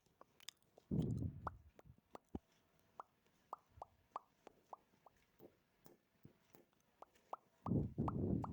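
Close-miked ASMR mouth sounds: a short burst of mouth noise, then a string of small, sharp mouth pops and clicks at an uneven pace, then another louder burst of mouth noise near the end.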